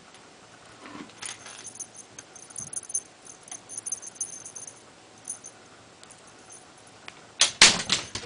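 A small bell jingling in irregular little shakes, then a louder burst of rattling clicks near the end.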